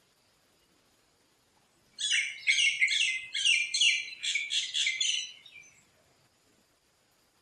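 Yellow-vented bulbul singing one quick, bubbling phrase of about a dozen high notes, starting about two seconds in and lasting nearly four seconds.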